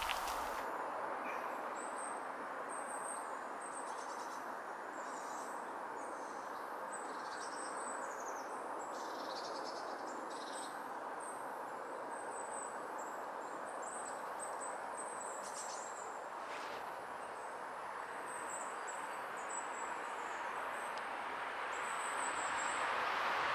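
Short, high, thin bird chirps, repeated now and then, over a steady background hiss of outdoor ambience.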